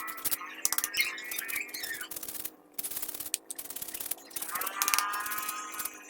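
Rapid scratching and rubbing strokes from a car vacuum cleaner's filter being cleaned by hand, with a short lull about two and a half seconds in.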